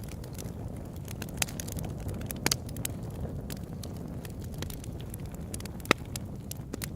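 Open-air wood campfire crackling: scattered sharp pops, the loudest about six seconds in, over a steady low rumble.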